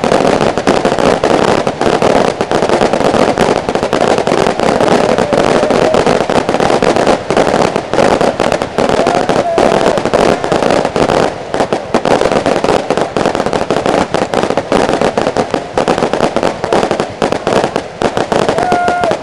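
Aerial fireworks bursting in a dense, continuous barrage of rapid bangs and crackles, with no break.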